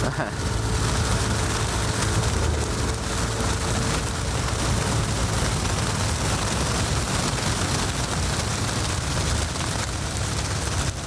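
Steady wind and road noise from riding a Yamaha N-MAX scooter in the rain, with rain hiss and the scooter's engine running underneath.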